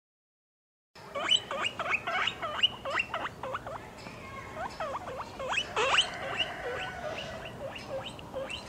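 Guinea pigs squeaking: a quick run of short, high calls that sweep sharply upward, several a second, starting about a second in.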